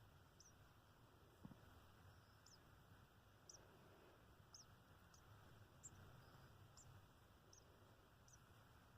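Baby sparrow nestling cheeping faintly under its covering: short, high peeps about once a second.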